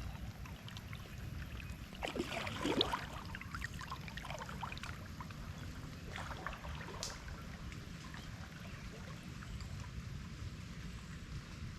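Kayak paddle strokes splashing in the lake, with water trickling and dripping off the blade; the splashes come in clusters, strongest a couple of seconds in and again about halfway. A low steady rumble runs underneath.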